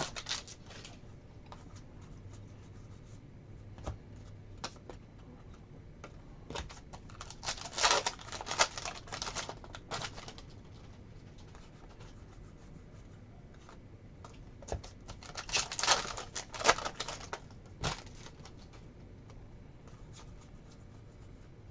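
Sports card packs being handled and opened, with cards flicked through: bursts of rapid rustling and clicking about a third of the way in and again past halfway, and scattered light ticks between.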